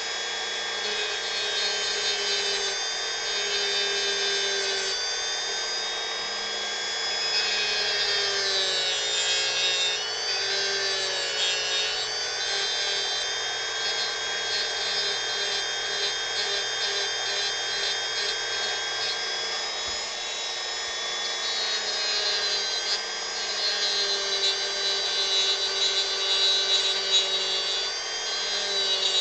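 Dremel rotary tool running at a steady high whine while carving wood, its pitch wavering and dipping now and then as the bit bears on the work.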